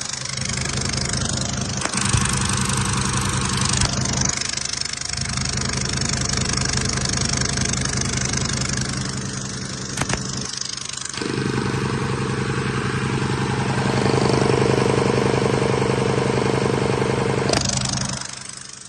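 Mercedes-Benz OM906LA 6.4 L inline-six turbodiesel running steadily at idle on a test run. It gets louder for several seconds in the second half, then drops off near the end.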